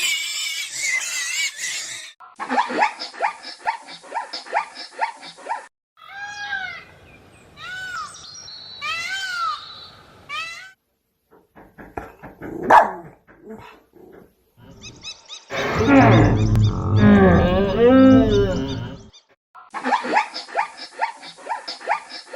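A run of different animal calls, one after another: quick repeated short calls, then arched squeaky chirps, a few clicks with one sharp loud note, and a loud low growling call lasting about three seconds, before the quick repeated calls return.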